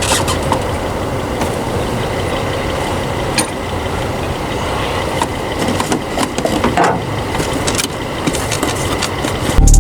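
A motor vehicle engine running steadily, with a few light clicks over it.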